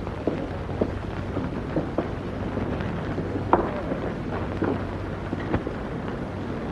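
Old optical film soundtrack noise: a steady hiss and low hum, with irregular crackles and pops from a worn print.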